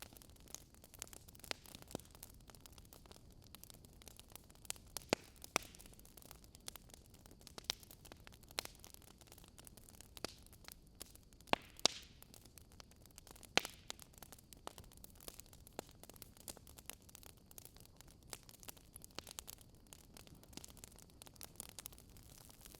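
Burning wood logs crackling: irregular sharp pops and snaps over a faint steady hiss, with a few louder snaps about halfway through.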